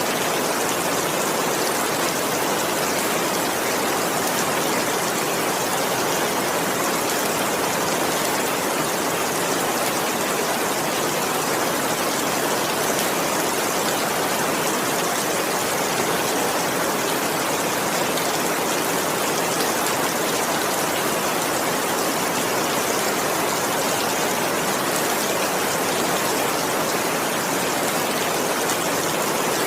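Heavy rain falling steadily, an even, unbroken hiss of rain without thunder.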